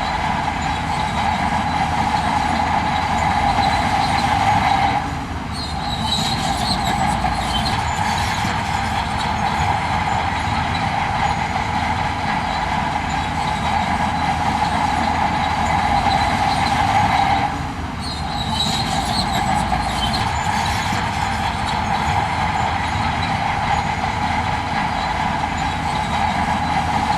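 Heavy earthmoving machinery running steadily, with high metallic squeals. The noise dips briefly twice, about five seconds in and again near eighteen seconds, and squeals follow each dip.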